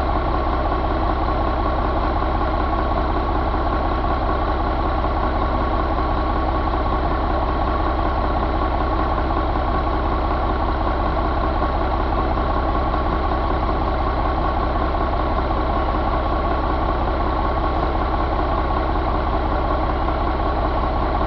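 1989 Ford 6.6 diesel engine idling steadily at an even speed, with no revving.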